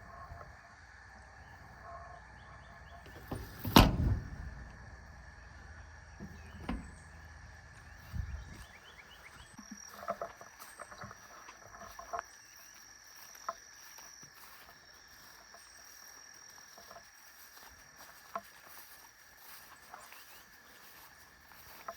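Insects droning steadily, with scattered knocks and thumps over it, the loudest a sharp thump about four seconds in.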